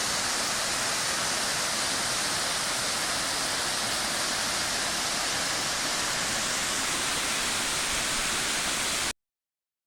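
Waterfall: a steady rush of falling water, which cuts off abruptly about nine seconds in.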